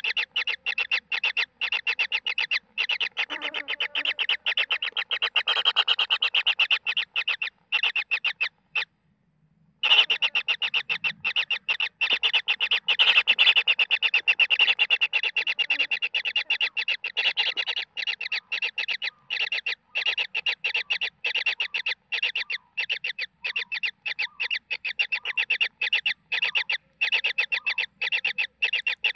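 Kingfisher nestlings begging: an unbroken train of short, rasping calls repeated several times a second. They break off for about a second some nine seconds in, then carry on.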